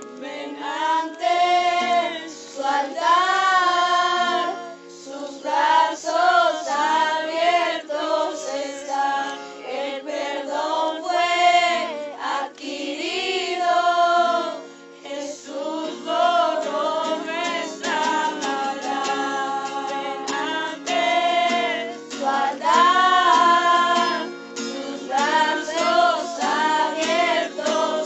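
Group of voices singing a Spanish worship song over acoustic guitar accompaniment.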